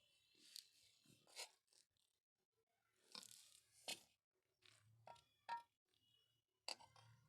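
Faint, scattered clicks and scrapes, about seven separate short sounds, with a brief hiss about three seconds in.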